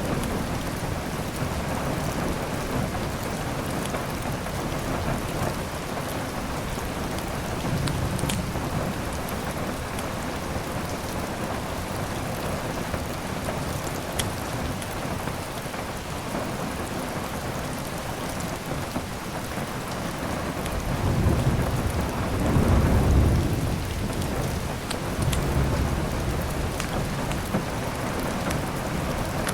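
Steady heavy rain with rolling thunder: a low rumble swells about two-thirds of the way through, with smaller rolls earlier and later. A few sharp crackles from a wood fire sound now and then.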